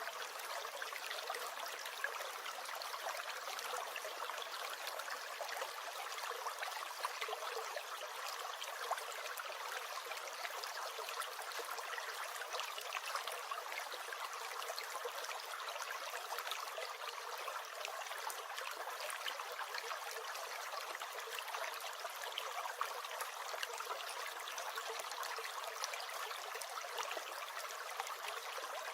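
A small stream gurgling and trickling steadily, with no breaks or changes.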